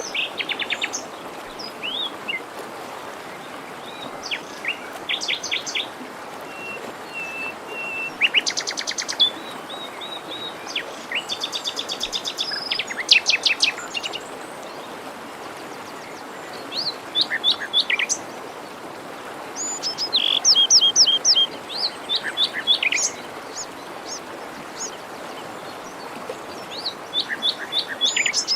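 Several songbirds singing in short trilled phrases of quick repeated notes every few seconds, over the steady rushing of a forest stream.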